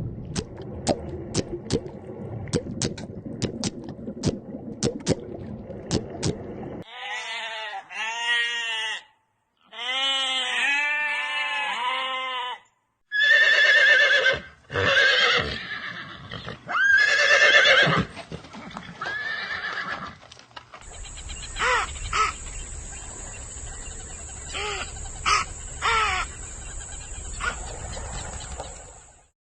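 A run of short animal-call clips cut together. About 7 seconds of sharp clicks comes first, then repeated arching calls, then several loud, high, wavering calls like a horse neighing, then a stretch with a steady high whine and scattered clicks.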